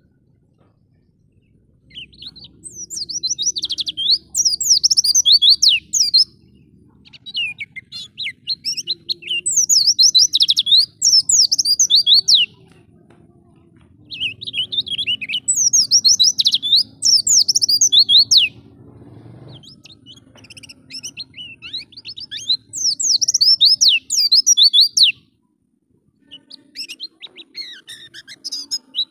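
White-eye (pleci) singing a rapid, high-pitched twittering song of quick sweeping notes. The song comes in five bursts of about four seconds each, with short pauses between them.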